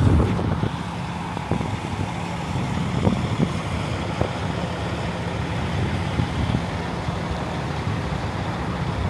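Low, steady rumble of street traffic, with scattered light knocks.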